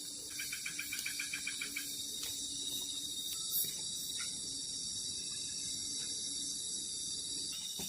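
Insect chorus of crickets: a steady high-pitched shrilling, with a quick run of pulsed chirps in the first two seconds.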